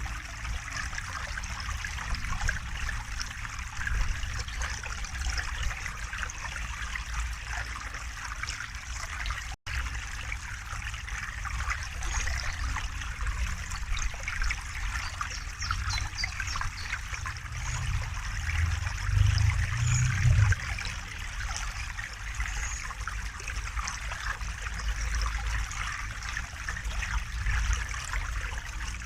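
A river or stream flowing and trickling steadily over stones, with a low rumble beneath that swells briefly about two-thirds of the way through. The sound cuts out for a moment about a third of the way in.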